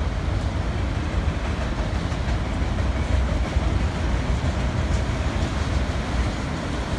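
Freight train of autorack cars rolling past: a steady low rumble of steel wheels on rail, with a light clatter over the rail joints.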